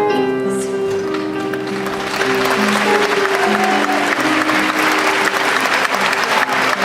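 Audience applauding over keyboard music playing sustained chords, the applause swelling about two seconds in.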